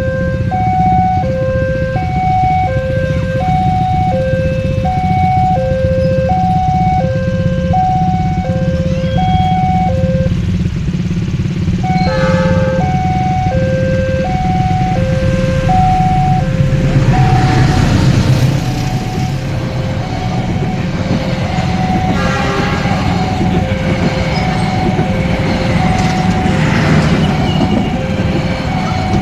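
Railway level-crossing alarm sounding its two-tone signal, a high and a low tone taking turns about once a second, warning of a train. Beneath it runs a steady low rumble, which swells briefly about two-thirds of the way through.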